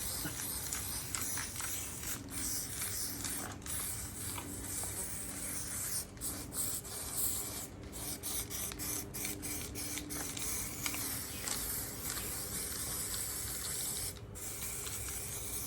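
Aerosol can of black spray paint hissing in long sprays broken by brief pauses, with several quick stop-start sprays in the middle.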